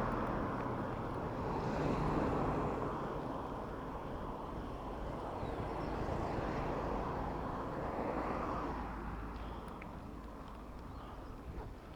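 City road traffic heard from a bicycle: engines rumbling and vehicles passing in slow swells, growing quieter in the last few seconds.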